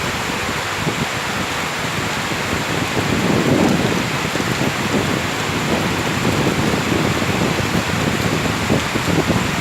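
Heavy rain pouring steadily, a dense even hiss with a lower churning underneath that swells and eases.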